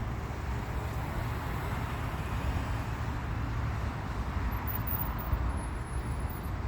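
Steady rumble of road traffic, with an even hiss over a strong low rumble.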